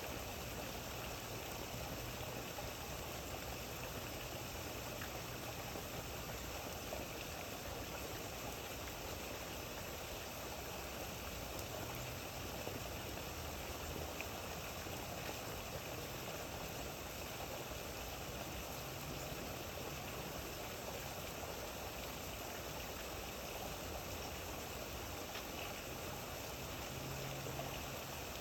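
Steady rain, an even, unbroken hiss, with a faint low hum that comes and goes.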